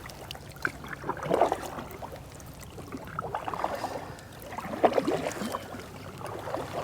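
Canoe paddle strokes: a swishing splash of water about every one and a half to two seconds, three or four strokes in all.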